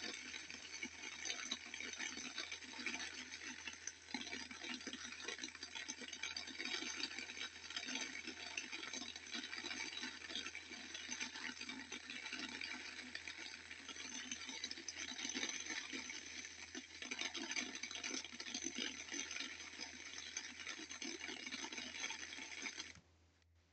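Steady rushing, crackling water noise that cuts off suddenly near the end.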